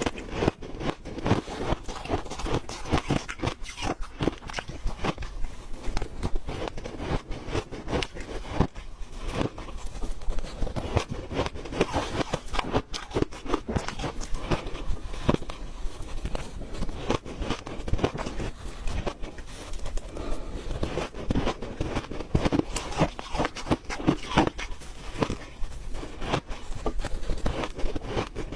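Close-up chewing of crunchy ice: rapid, irregular crunches and cracks as the ice is bitten and ground between the teeth.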